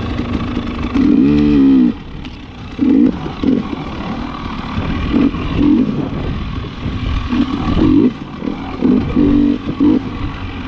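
KTM 300 XC-W TPI's single-cylinder two-stroke engine working hard through deep sand, revving up and dropping back in repeated bursts of throttle, the longest about a second in.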